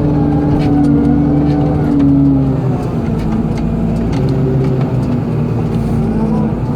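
Excavator's diesel engine running under load with hydraulic strain, its pitch settling lower about two and a half seconds in, with a few light clanks.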